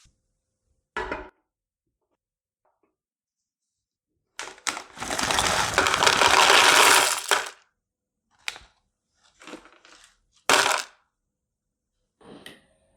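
Kitchen utensils knocking and clinking against dishes, with a loud scraping noise lasting about three seconds in the middle and a few more sharp knocks after it.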